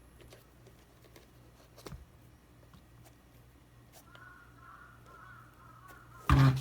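A crow cawing repeatedly from about four seconds in, over faint clicks of small parts being handled; a single loud knock near the end.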